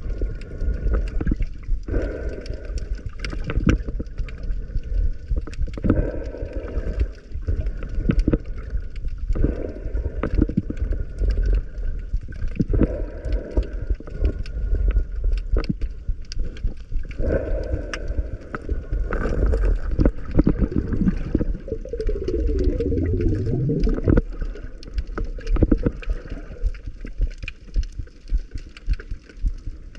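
Underwater sound picked up by a camera below the surface: muffled rushing and gurgling of water with many scattered clicks, swelling every couple of seconds. A short rising tone sounds about three-quarters of the way through.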